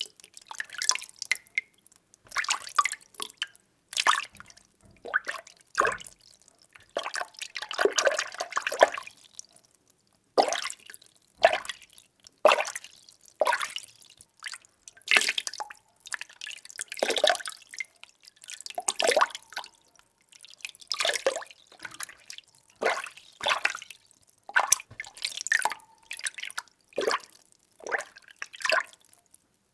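Water being stirred by hand in a container: irregular sloshes and splashes, one every second or two, with short pauses between.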